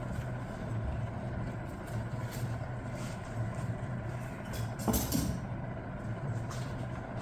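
Steady low mechanical hum in the background, with one short sharp clatter about five seconds in.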